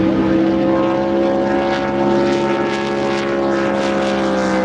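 Racing boat engine held at full throttle, its pitch climbing slightly and then holding steady.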